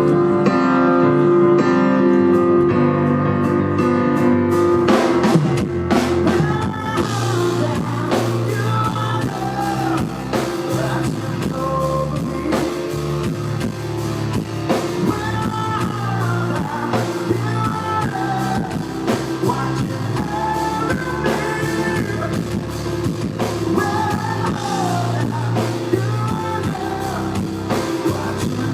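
Live rock band playing. Held guitar chords ring for about five seconds, then the drums come in and a singer's voice carries the melody over guitar and drums.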